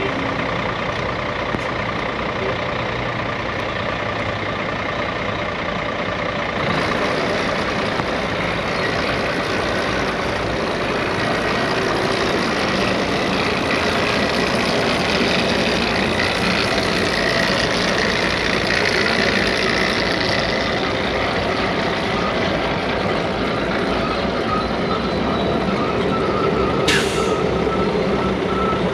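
Ford manure truck running steadily, with a steady whine over the engine noise. About six seconds in, a brighter, hissier mechanical noise joins it. Near the end there is one brief sharp click.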